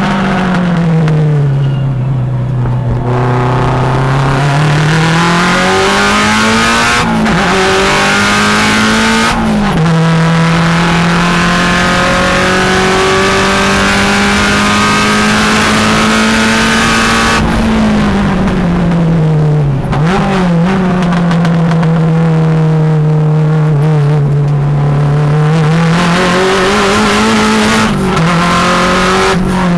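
Subaru STi race car's turbocharged flat-four engine heard loud from inside the cabin at racing speed: it climbs in pitch with two quick upshifts, holds high on a long pull, then drops as the car slows for corners and climbs again.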